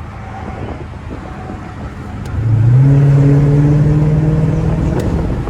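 Car engine accelerating hard about two seconds in: its note climbs, then holds a loud steady drone before easing off near the end.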